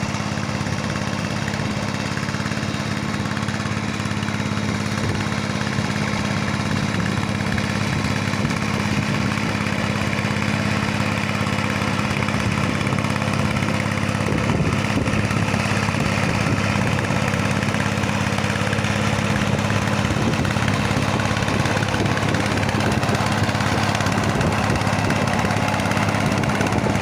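Engine of a walk-behind hand tractor running steadily while plowing a flooded rice paddy, a constant low hum that grows slightly louder near the end.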